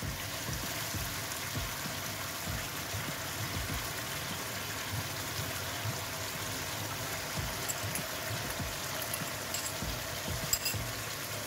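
Cucumber slices and beaten egg sizzling and bubbling steadily in a wok of hot oil and water. A few light clicks near the end as a fork stirs the egg in the pan.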